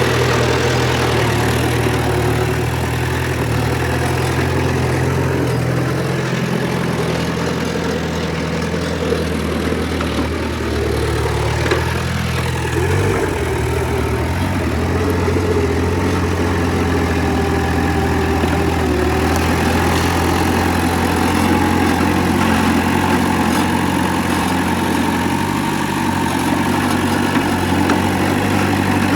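Diesel engine of heavy earthmoving machinery running steadily, its engine note shifting about halfway through.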